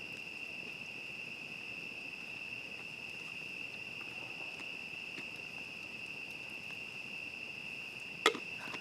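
Crickets chirping in a steady, unbroken high-pitched chorus, with faint scattered crackles from a campfire and one sharp pop near the end.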